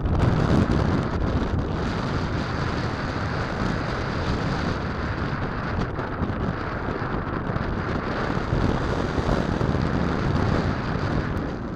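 Strong wind buffeting the microphone: a steady rushing noise that eases slightly near the end.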